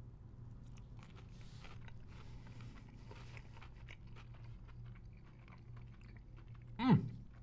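A person chewing a breaded fried chicken nugget dipped in barbecue sauce, with soft, irregular crunches of the breading. Near the end comes a short voiced sound, falling in pitch, which is the loudest moment.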